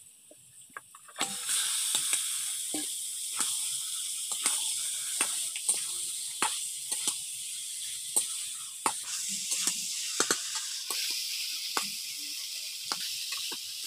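Raw chicken pieces frying in hot oil and spiced masala in a kadai: the sizzling starts abruptly about a second in as the meat goes into the pan, and a metal spatula scrapes and clicks against the pan as the meat is stirred. This is the start of kasha, frying the meat down in the masala.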